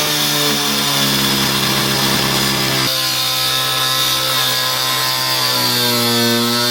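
Electric angle grinder cutting through a car's sheet-metal body panel, running with a loud, steady whine. Its pitch drops sharply about three seconds in and climbs back near the end.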